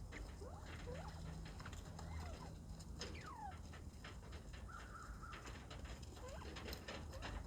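Northern bobwhite quail calling softly: many short rising and falling whistled notes, with one held whistle about five seconds in. Scattered light clicks and a low steady hum lie underneath.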